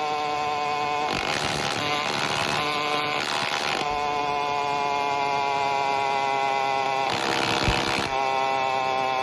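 Phantom 85 two-stroke engine running with no exhaust fitted, a raw, steady high-pitched engine note at an even cruising speed. Stretches of rushing noise come in about a second in and again around seven seconds.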